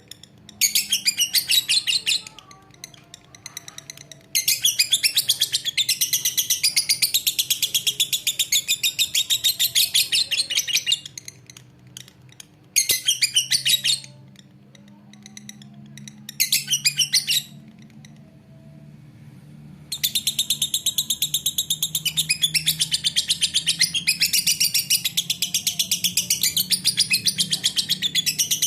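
Lovebird singing its long, rapid, high-pitched chattering trill ('ngekek'), in bouts: a short burst, one running about seven seconds, two short bursts, then another long run near the end.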